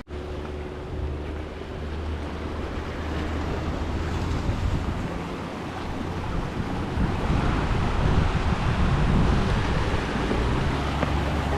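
A motorboat's engine runs with a steady low drone under wind noise on the microphone and rushing water. The water and wind grow louder about halfway through.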